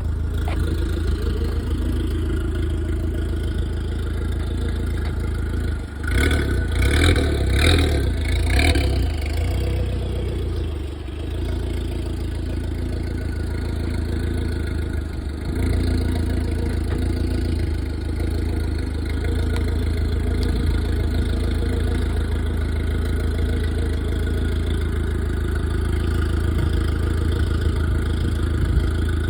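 Engine of a mid-engine SRT-4 running steadily at low speed. About six seconds in it grows louder and noisier for about three seconds, then settles back to a steady run.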